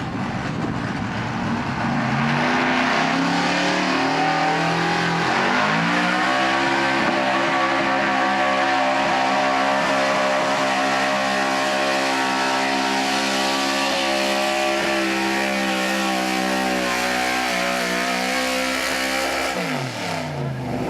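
4x4 truck engine at full throttle, its revs climbing in steps over the first few seconds, then held high and steady for about fourteen seconds before dropping off near the end.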